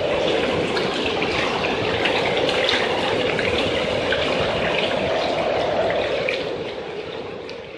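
Steady rushing noise of storm wind and water, fading away near the end.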